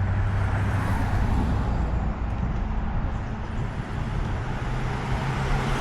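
A motor vehicle's engine running steadily, with road and traffic noise. Its low hum fades in the middle and grows stronger again near the end.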